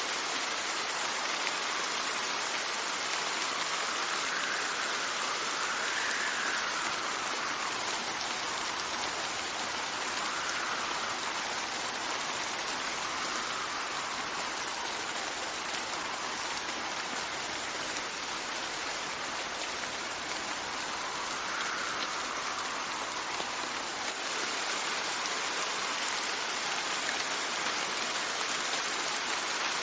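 Steady rain falling, with wind gusts that swell and die away several times over it.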